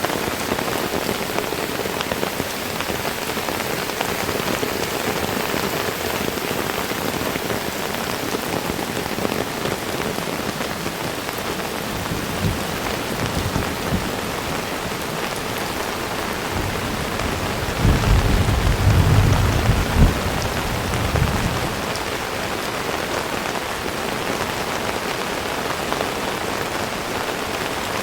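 Heavy rain falling steadily on surfaces, with a low rumble of thunder swelling for a few seconds about two-thirds of the way in, preceded by a fainter rumble around the middle.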